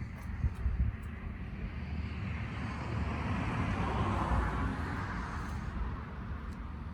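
Vehicle noise that swells over a couple of seconds and fades again, over a steady low rumble.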